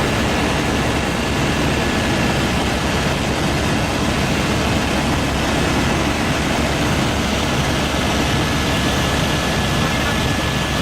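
Helicopter in flight: a steady, loud drone of engine and rotor with a thin constant high whine.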